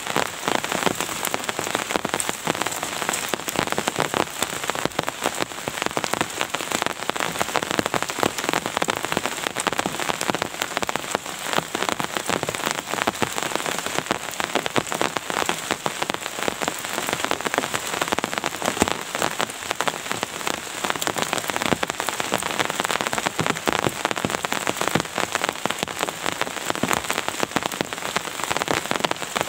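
Steady rain, a dense, unbroken run of individual drops striking a surface, even in level throughout.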